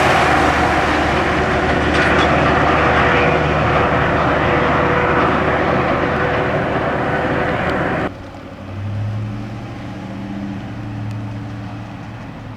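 Loud, steady engine noise with a low drone that cuts off abruptly about eight seconds in, giving way to a quieter engine running with a low hum that swells and fades.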